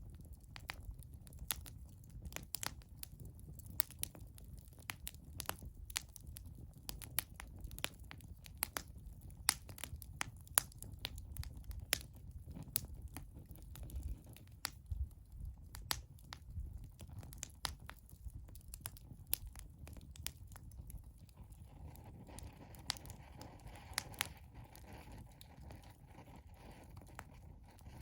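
Wood fire burning, with frequent sharp pops and crackles of burning wood over a low steady rumble. A faint steady hiss joins in about two-thirds of the way through.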